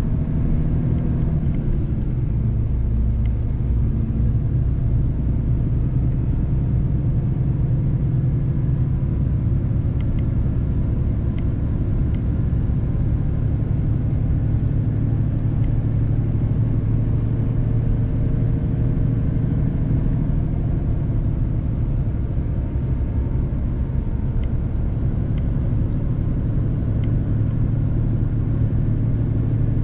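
Mercedes-Benz truck driving along: a steady low engine drone with road noise.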